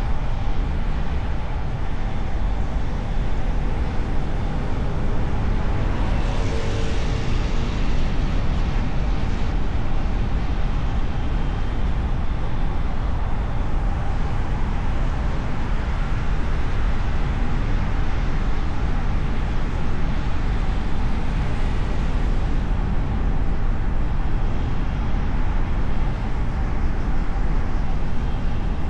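Steady road noise of a car driving through city traffic, heard from a hood-mounted camera: a low rumble of engine, tyres and wind. About six seconds in, a louder hissing swell with a brief tone rises and fades over a few seconds, like another vehicle passing close.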